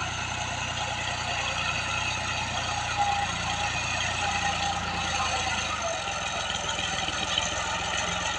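Fiat 480 tractor's diesel engine running steadily, its low note changing about six seconds in.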